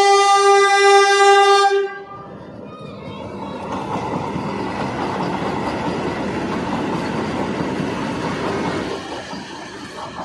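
Train horn held on one steady note, cutting off about two seconds in, followed by the noise of the train running past with wheel clatter, building up and easing off near the end.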